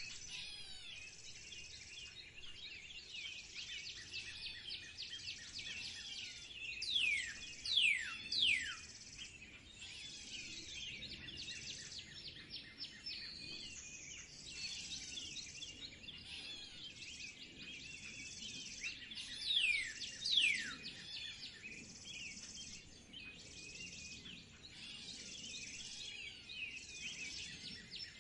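Several songbirds chirping and twittering together in a steady chorus. A louder bird gives sharply falling, down-slurred calls in bursts of two or three, about seven seconds in and again about twenty seconds in.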